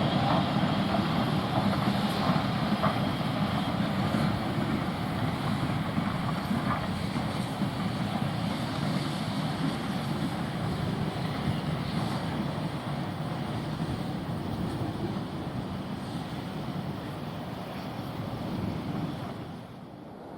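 A train running steadily, its sound slowly fading as it draws away.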